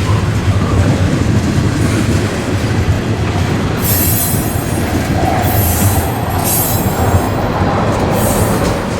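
Freight train on the move: a steady low diesel rumble, with several short bursts of high-pitched wheel squeal in the second half.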